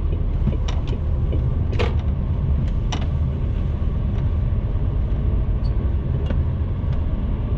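Heavy goods truck's diesel engine and road noise heard from the cab while driving, a steady low rumble with a few faint clicks.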